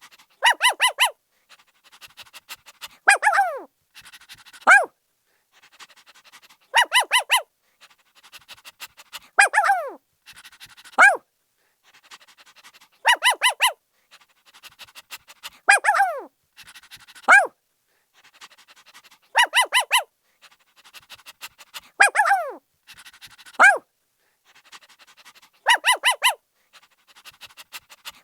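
Puppy barking in a repeating pattern: a quick run of about four short, high yaps, then a yelp that falls in pitch and a single yap, with faint panting between. The same sequence comes round about every six seconds.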